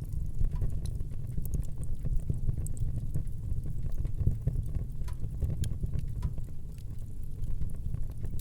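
Wood fire burning in a fireplace: a steady low rumble of flames with scattered sharp crackles and small pops throughout.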